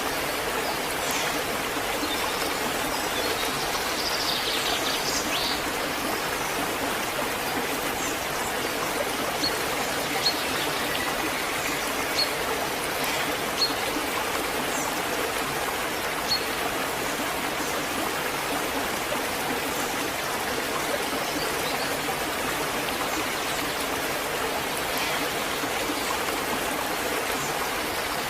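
Waterfall: water falling and rushing in a steady, unbroken stream, with a few faint short chirps above it.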